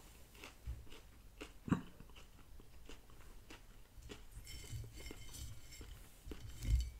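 Close-miked chewing and crunching of a Chicken McNugget, with small clicks from the mouth; one sharper click comes a little under two seconds in, and a dull bump comes near the end.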